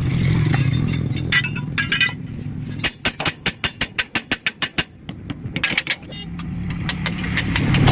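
A vehicle engine running low, then about two seconds of rapid sharp metallic clicks, roughly seven a second, before another engine rumble builds toward the end.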